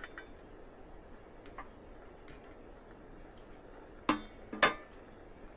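Metal cooking pot and utensil clinking: a few faint taps, then two sharp clanks about half a second apart near the end, over a low steady background hiss.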